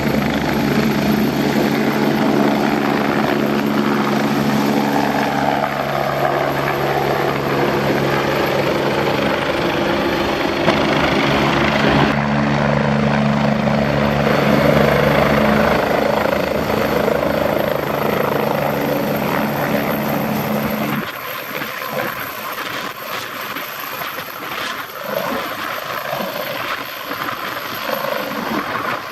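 Twin-engine Leonardo AW109 Power helicopter running: a steady turbine and rotor drone with a dense, even hum underneath. About two-thirds of the way through, the sound drops abruptly, losing its low drone and leaving a quieter, thinner noise.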